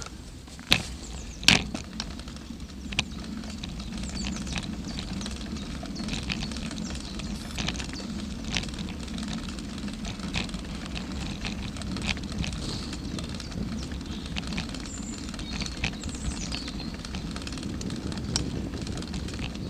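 Bicycle being ridden along a path: a steady rolling rumble with scattered clicks and rattles, and a few sharp knocks in the first two seconds.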